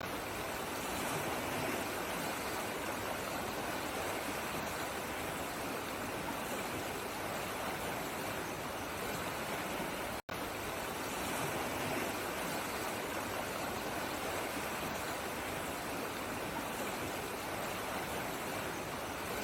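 Steady rushing of flowing water, an even hiss without any distinct events. About halfway through it cuts out for a split second and then carries on unchanged.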